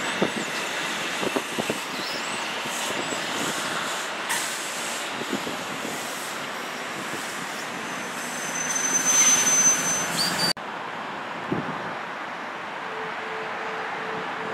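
Passenger train at a station platform, running with a steady hiss and a brief high squeal about eight seconds in. After an abrupt cut the sound drops, and a short beep repeats evenly near the end.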